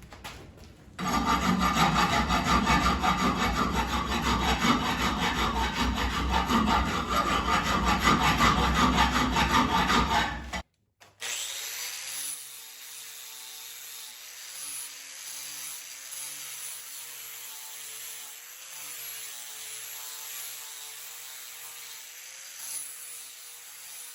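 Harsh, continuous rasping of an abrasive power tool working the forged steel hammer eye drift, finishing it. It stops abruptly about ten seconds in, and quiet background music with a wavering melody follows.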